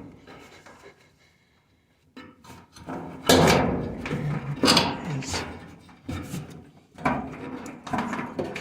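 Knocks, clunks and scraping of a dryer's drum belt and spring-loaded tension roller being worked by hand inside the metal cabinet, as the belt is pulled and routed to the motor pulley. Nearly quiet for the first two seconds, then a run of separate knocks from about three seconds in.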